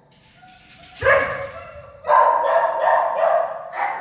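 Dogs barking in shelter kennels: quiet for the first second, a sudden loud bark about a second in, then repeated barking from about two seconds in.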